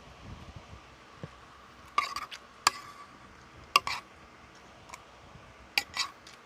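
Eating utensils clinking against a plate several times while eating fried rice, in sharp short clicks, some in quick pairs.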